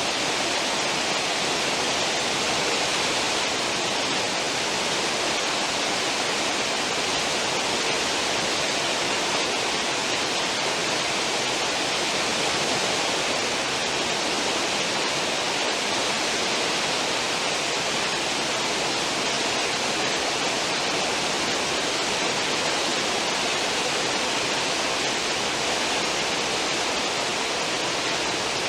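Cruise ship's stern wake: a steady, unbroken rush of churned, foaming water behind the moving ship.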